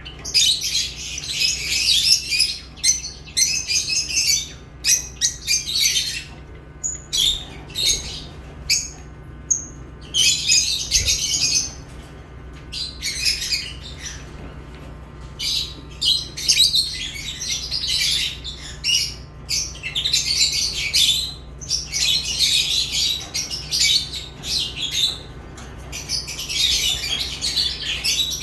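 Lovebirds chattering in dense, high-pitched chirps and squawks, thinning out for a few seconds about a quarter of the way through, over a steady low hum.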